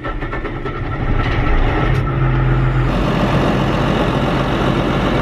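Large farm diesel engine running. It gets louder about a second in, and its sound fills out and strengthens from about three seconds in, as if throttling up.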